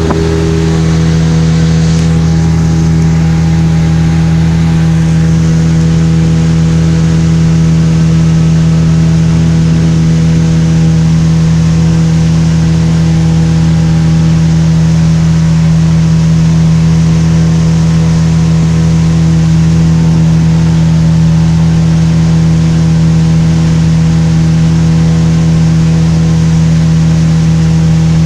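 Suzuki DT 30 two-stroke outboard motor running loud and steady at a constant speed, the boat under way.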